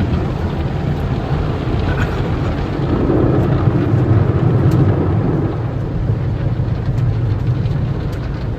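Automatic tunnel car wash working over the car, heard from inside the cabin: a loud, steady low rumble with a rushing, rain-like noise of the wash equipment and water.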